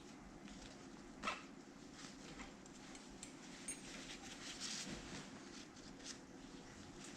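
Faint handling sounds of strap webbing being threaded through a buckle: light rustles and scrapes, with one sharp click about a second in.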